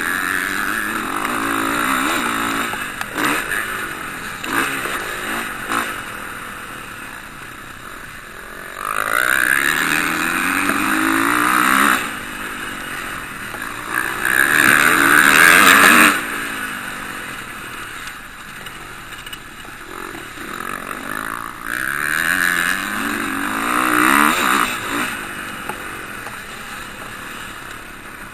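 Motocross bikes racing past on the track, engines revving hard with pitch climbing again and again as they accelerate. Several loud passes come and go, the loudest about halfway through.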